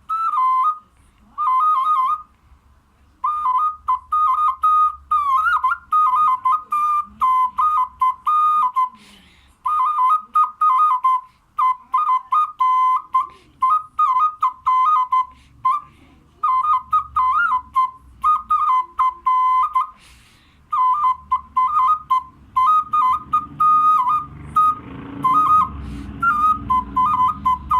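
A small clay folk whistle (svistulka) played in a quick, warbling tune of short notes hopping within a narrow high range, in phrases broken by brief pauses, at a medium tempo. A low noise sits under the last few seconds.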